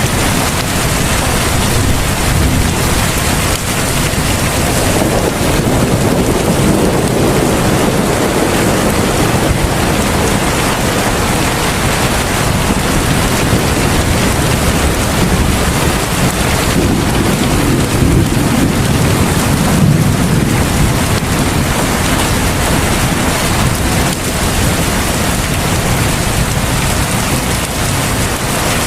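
Heavy rain pouring steadily, a dense even hiss, with two slow low rumbles swelling up, one about five seconds in and one about seventeen seconds in.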